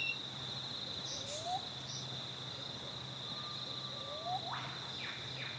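A steady, high, pulsing chorus of insects, with a few short rising calls from other animals over it.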